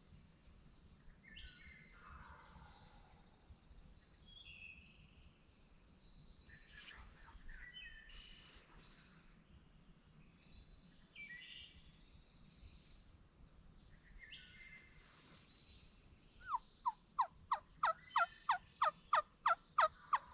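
Faint songbirds calling in woodland, then near the end a loud run of about a dozen quick wild turkey yelps, each note falling in pitch, at about three a second.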